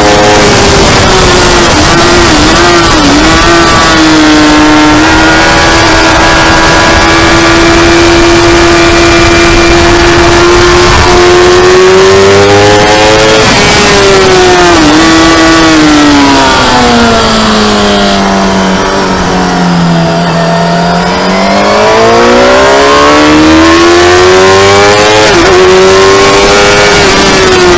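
Motorcycle engine on a race track, loud and held at steady high revs for a long stretch. It then falls steadily in pitch for several seconds as the bike slows, and climbs again with a quick gear-change step near the end. A loud rush of noise runs over it.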